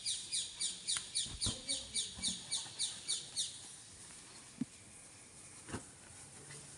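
A bird chirping in a quick, even series of high falling notes, about four a second, that stops suddenly about three and a half seconds in. A few soft knocks and rustles of fabric as garments are handled.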